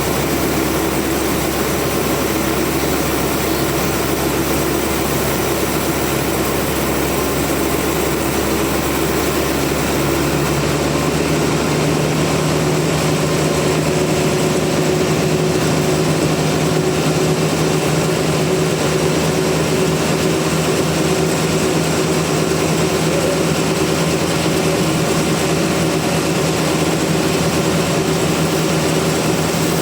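Sawmill machinery running steadily, its pitch shifting to a new steady note about a third of the way in.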